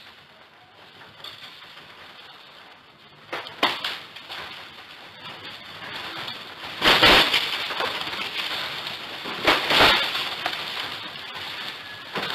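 Crashing and rumbling, with three sudden crashes: a smaller one about three and a half seconds in and the two loudest at about seven and nine and a half seconds.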